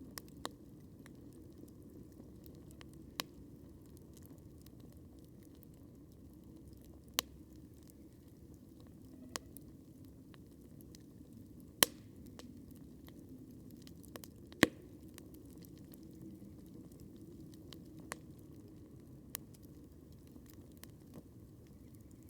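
Wood campfire crackling: scattered sharp pops and snaps over a low, steady sound of burning, with two much louder pops a few seconds apart around the middle.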